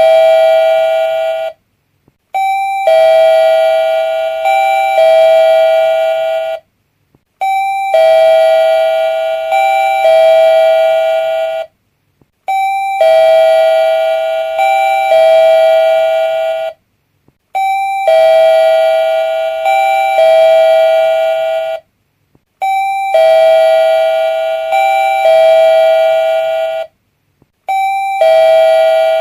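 Doorbell chime ringing a short tune of several notes, repeated about every five seconds with a brief silence between rings.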